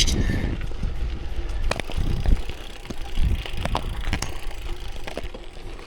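Bicycle rolling along a gravel rail trail: a steady low rumble of tyres with scattered small sharp clicks and ticks.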